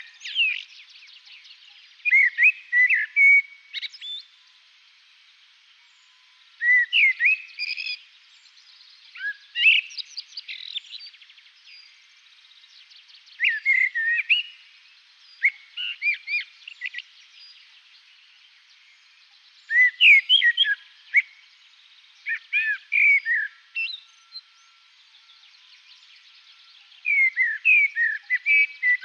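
A songbird singing short phrases of quick, clear notes that slide up and down, repeated every few seconds with pauses between.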